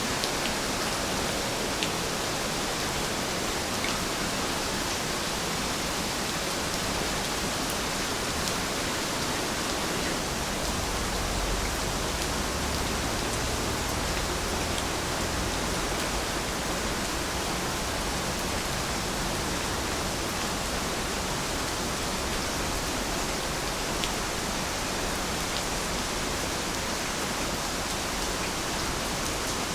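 Heavy rain falling steadily: a dense, even hiss with a few faint ticks of single drops.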